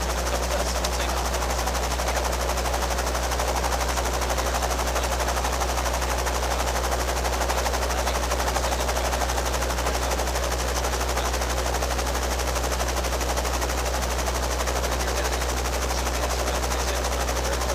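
Robinson R22 helicopter running with its rotor turning: a steady, rapid chopping beat from the blades over the hum of its four-cylinder piston engine.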